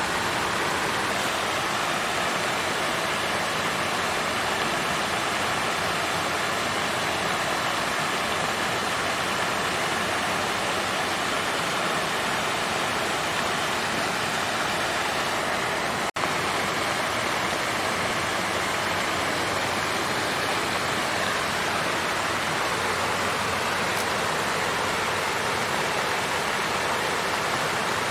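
Water fountain flowing and splashing in a steady, even rush, broken once by a split-second dropout about sixteen seconds in.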